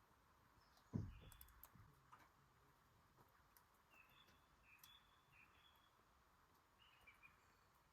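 Near silence, with a single low thump about a second in. Faint short high bird chirps come in a cluster in the middle and once more near the end.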